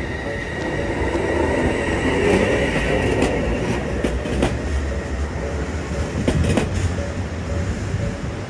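Odakyu electric commuter train passing over a level crossing, its wheels clacking several times over the rail joints as the last cars go by. From about halfway through, the crossing bell's evenly repeating ding comes through more plainly as the train noise eases.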